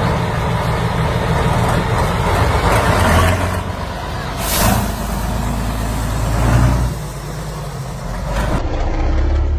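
Old tractor engine running with a steady low rumble that rises and falls in level a few times. A brief hiss comes about four and a half seconds in.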